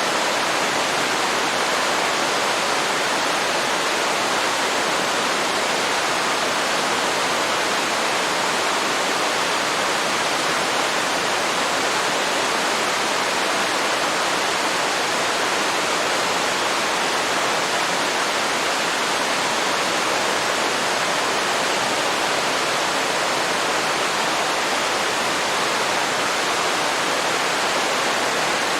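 Waterfall pouring into a river: a steady, even rush of falling water with no breaks.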